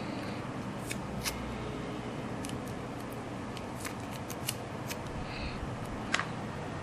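Scissors snipping paper or card: a dozen or so short, sharp, irregular clicks and snips of hand crafting work, over a steady low hum.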